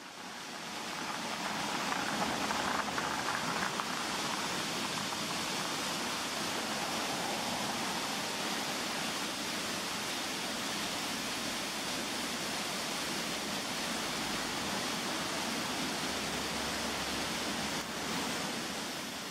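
Shepperd's Dell waterfall rushing steadily, an even roar of falling water.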